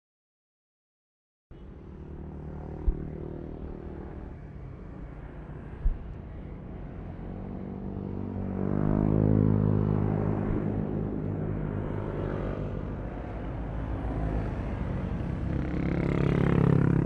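Yamaha Aerox V3 scooter's 155 cc single-cylinder engine running on the move, its pitch rising as it accelerates about halfway through and again near the end. After a second and a half of silence at the start, with two short thumps a few seconds in.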